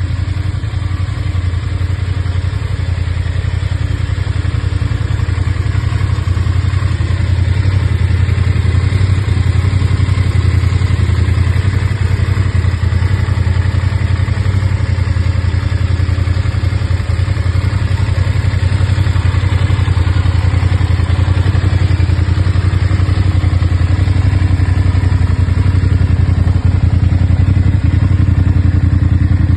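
Voge 900DSX motorcycle's parallel-twin engine running steadily without revving, a little louder from about eight seconds in.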